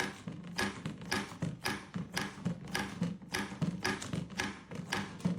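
A steady series of short taps, about three a second, each with a light low thump under it.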